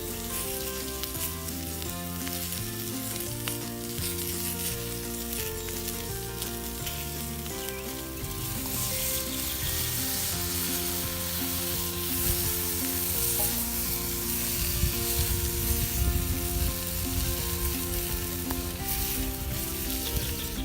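Thick bison steak sizzling in a frying pan over a campfire, the sizzle growing louder about eight seconds in.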